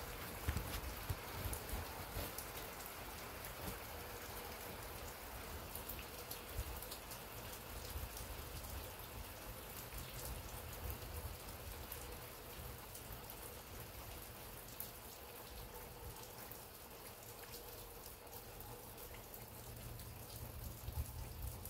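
Steady light rain falling, with scattered drops ticking close by and a low rumble underneath.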